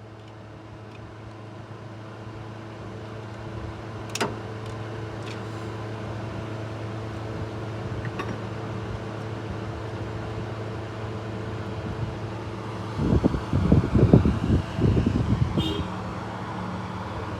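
A steady machine hum that builds up at the start and then holds level, with a sharp click about four seconds in and another about eight seconds in. A cluster of loud, low rumbling knocks comes about thirteen to fifteen seconds in.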